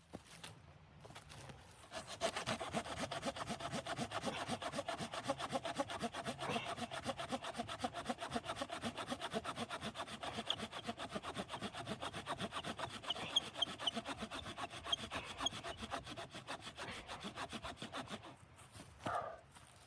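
Hand saw cutting wood in quick, even strokes, starting about two seconds in and stopping shortly before the end.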